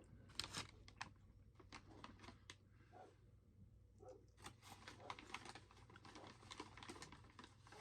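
Faint chewing of cereal-coated marshmallows, heard as soft, irregular crunchy clicks.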